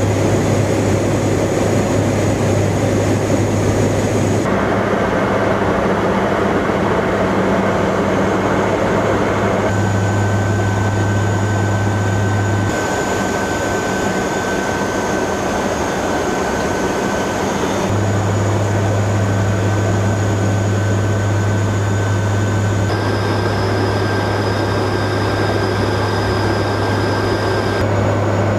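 MV-22B Osprey tiltrotor's engines and proprotors running: a loud, steady drone with a strong low hum and a few high steady tones. Its mix shifts abruptly every few seconds.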